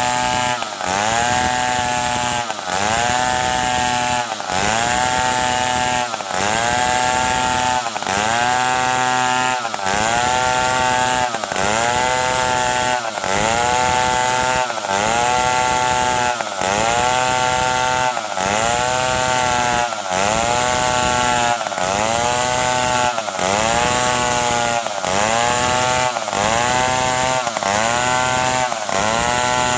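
Stihl 070 two-stroke chainsaw running hard while cutting wood. Its pitch dips and climbs back about every second and a half, over and over, as the engine bogs under the load of the cut and recovers.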